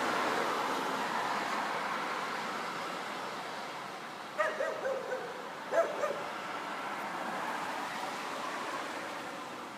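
A dog giving two high yelps about halfway through, the first drawn out and falling in pitch, the second short, over the steady noise of passing traffic.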